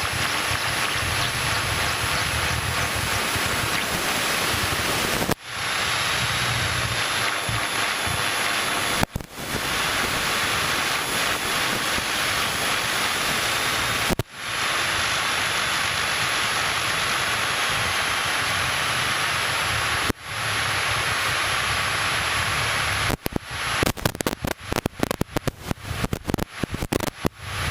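Steady rushing noise of a Cessna 152 in flight, airflow and engine together. It drops out abruptly four times, then stutters on and off rapidly near the end.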